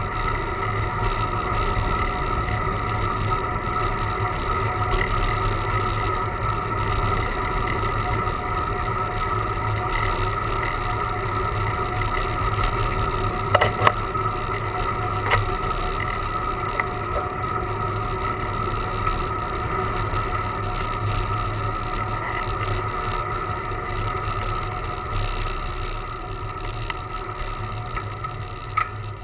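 Steady wind and road rush on a camera carried on a climbing bicycle, with a constant hum under it. A few sharp knocks come about halfway through, and the noise eases a little near the end.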